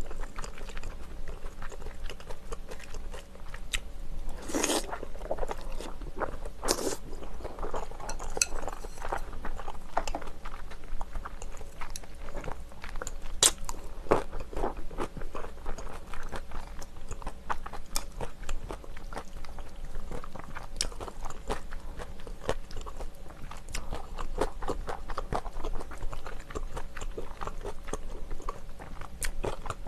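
Close-miked chewing and mouth sounds of a person eating a large dumpling from rice-cake and dumpling soup, with occasional sharp clicks.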